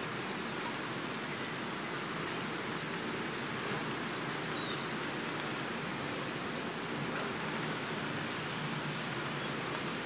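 Steady rain falling, an even hiss with no other sound standing out except one faint tick a little under four seconds in.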